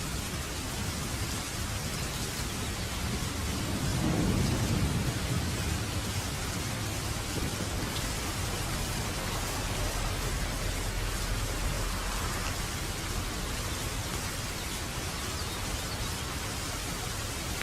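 Steady rain hissing, with a low rumble of thunder swelling about four seconds in and fading over a couple of seconds.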